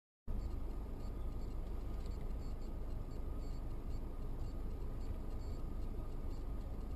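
Steady low rumble of a car driving, road and engine noise, starting suddenly a moment in after silence.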